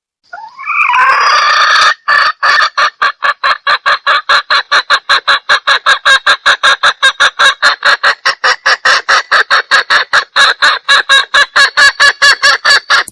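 Junglefowl hen calling, played as a hunter's lure: a drawn-out squawk that bends in pitch, then a long, even run of rapid clucks, about four or five a second.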